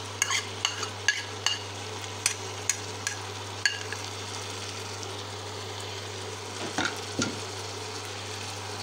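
Shredded potato and egg frying in oil in a pan, a steady sizzle. A metal spoon taps and scrapes against a ceramic bowl several times in the first four seconds as chopped coriander is knocked into the pan, with a couple more knocks near the seventh second. A steady low hum runs underneath.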